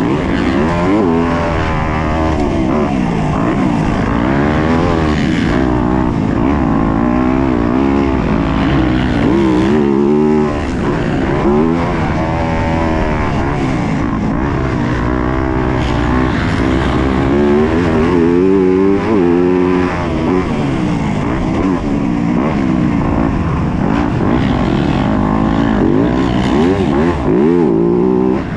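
Yamaha YZ250F's 250cc four-stroke single-cylinder engine racing hard, its pitch repeatedly climbing and dropping every second or two as the throttle is opened and closed through the corners and jumps.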